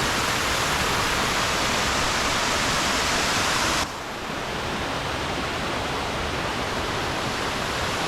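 Steady rush of a waterfall, dropping suddenly to a quieter, duller rush about four seconds in.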